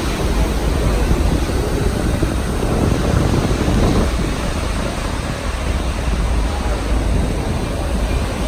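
Steady rumble and rush of a moving passenger train, heard from on board.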